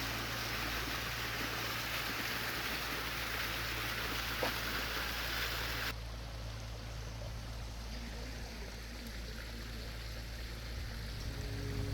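Running water of a stream, a steady rush that drops suddenly to a softer flow about halfway through. A faint low hum runs underneath.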